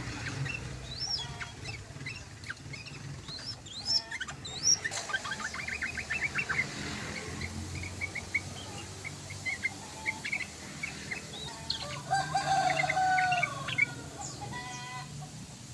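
Yellow-vented bulbul singing: bubbly chirps and whistled notes, with a quick trill about a third of the way in and a louder warbled phrase near the end, over a low steady hum.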